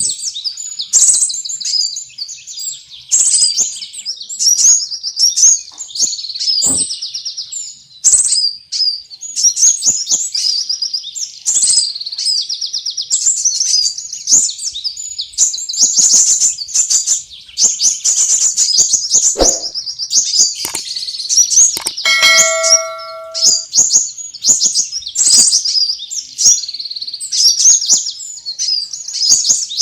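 Sunbirds chirping and twittering in rapid, high-pitched, almost unbroken runs: a lure call recording meant to draw small birds in. About two-thirds through, a brief steady tone sounds under the chirps.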